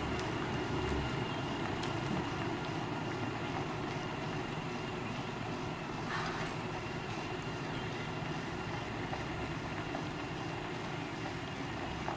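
Scania CR112 bus's diesel engine running steadily, with a brief hiss about halfway through.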